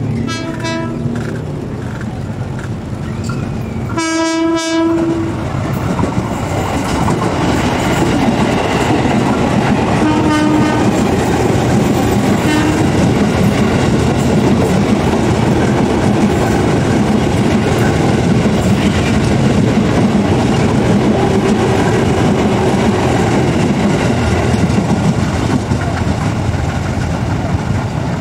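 Electric commuter train sounding its horn: short toots at the start, a loud blast of about a second about four seconds in, and a shorter one about ten seconds in. Then the train passes close by, its wheels running and clattering over the rail joints in a steady loud rumble.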